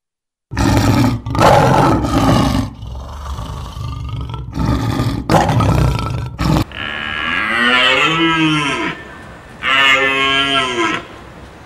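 A stretch of loud, rough noise, then two long drawn-out animal calls, each rising and then falling in pitch.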